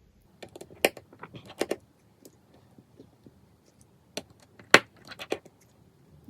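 Irregular light clicks and taps from handling small iPhone 5s parts while a replacement screen is fitted and tried. The sharpest click comes about three-quarters of the way through.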